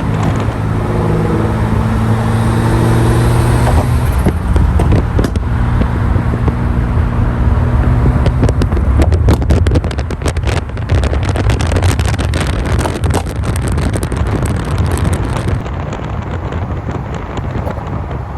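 A sports car's engine running steadily and loud, with wind buffeting the microphone, hardest in the middle.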